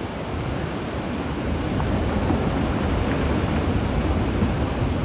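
Glacial outburst floodwater rushing in a steady, churning torrent, growing a little louder over the first two seconds.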